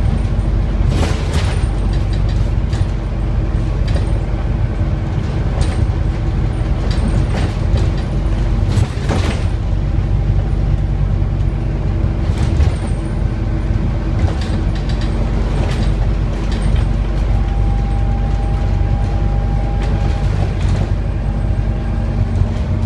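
Scania N230UD Omnicity double-decker bus running, its engine a steady low hum, with frequent short rattles and clicks from the bus throughout.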